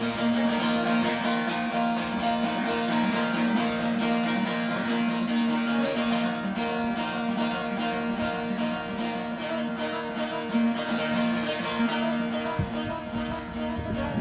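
Instrumental music on a plucked string instrument, picked rapidly in an even rhythm over a steady drone note, with no singing.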